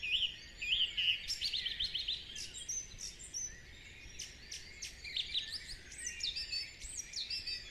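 Several songbirds singing together: short repeated chirping phrases and quick trills overlapping one another, over a faint low background hum.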